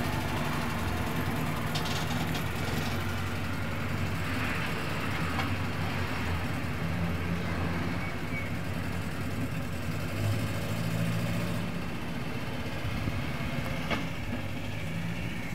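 Land Rover Series III Lightweight's engine running at low revs as it is reversed out onto the road, its note rising and falling a little.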